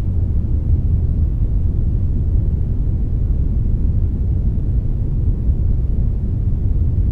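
Steady synthetic 'brownish' noise, a blend of brown and white noise: a deep, even rumble with most of its weight in the low end and only a faint hiss above, unchanging throughout.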